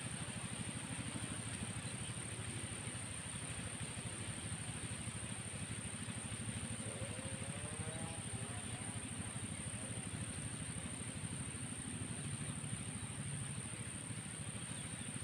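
Insects, likely crickets, buzzing as one steady high-pitched drone, over a low rumble.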